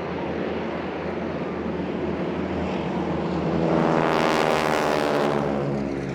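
Boeing Stearman biplanes' Pratt & Whitney radial engines buzzing in display flight. One passes close, growing louder about three and a half seconds in and fading again near the end.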